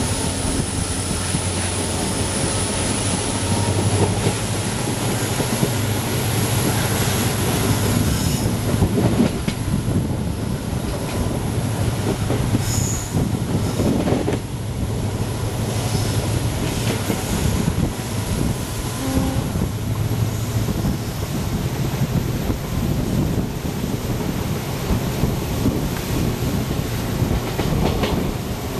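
Passenger train coach running along the rails, heard from its open doorway: a steady rumble of wheels on track, with scattered clicks as the wheels pass over rail joints and points.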